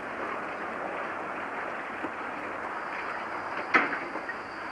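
Steady running noise of a 750 mm narrow-gauge train, with a single sharp clank about three-quarters of the way through and a faint high-pitched tone over the last couple of seconds.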